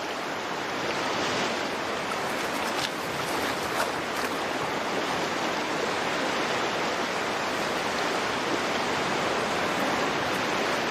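Steady rush of flowing stream water, with a few faint ticks in the first four seconds.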